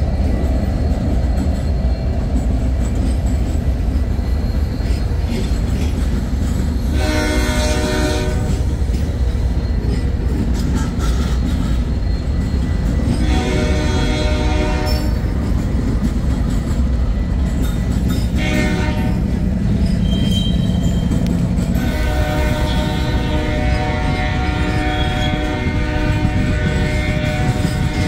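Canadian Pacific diesel locomotives rolling past close by, their engines a heavy low rumble, with freight cars following near the end. A locomotive horn sounds the grade-crossing signal: two long blasts, a short one, then a final long blast held for about six seconds.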